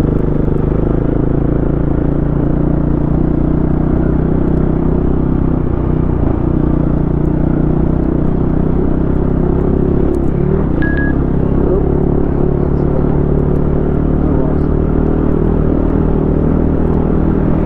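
Single-cylinder four-stroke enduro dirt bike engine running steadily under way on a trail, its pitch dipping briefly twice as the throttle is eased. A short high tone sounds about eleven seconds in.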